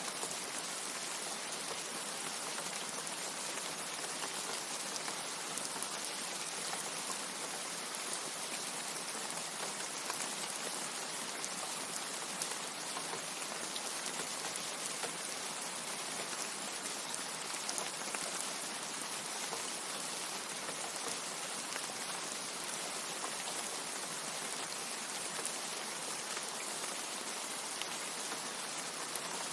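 Steady rain falling: a constant hiss with scattered drops ticking through it.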